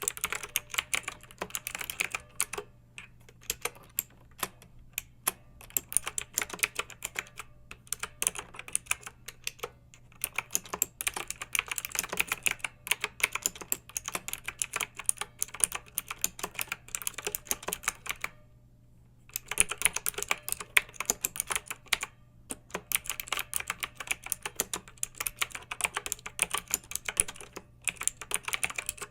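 Fast typing on a clicky mechanical keyboard: a dense run of sharp keystroke clicks, pausing for about a second a little past the middle. A faint steady hum sits underneath.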